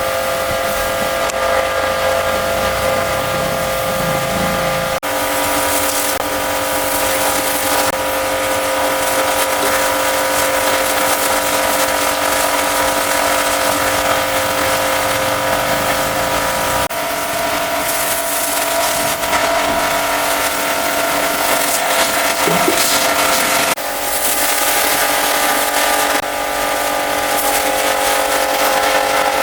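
High-pressure washer spraying: a steady motor-and-pump whine over the constant hiss of the water jet. The pitch and balance change abruptly three times.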